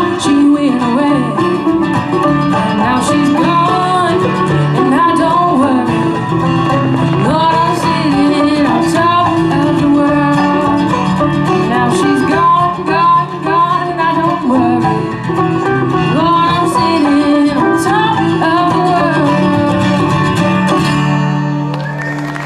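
Live bluegrass string band playing a fast blues-style song, with picked banjo and guitar and singing. It ends on a held final chord near the end.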